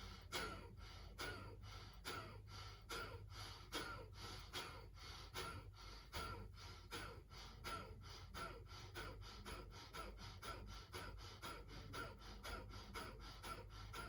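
A man doing Kapalbhati breathing: short, forceful exhalations through the nose, driven by the stomach muscles, repeated in a steady rhythm of about two to three a second, with passive inhalations between.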